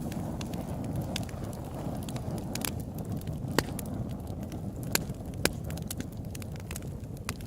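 Open-air campfire crackling: irregular sharp pops and snaps of burning wood over a steady low rumble, with a few louder pops in the middle.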